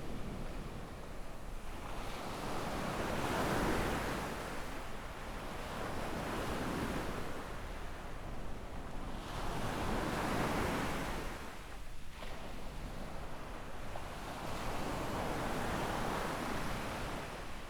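Small waves breaking and washing up a sandy beach, the surf swelling and fading every three to five seconds.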